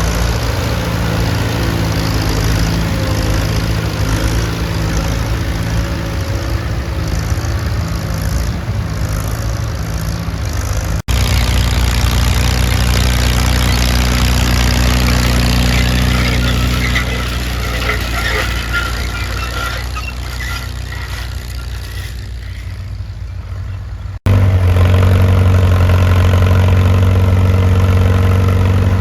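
Antique tractor engines running steadily while plowing, a low, even engine note. The sound cuts abruptly twice, about eleven seconds in and again near the end, each time switching to a different engine note: a different tractor or clip. In the middle stretch the engine fades a little under a hiss.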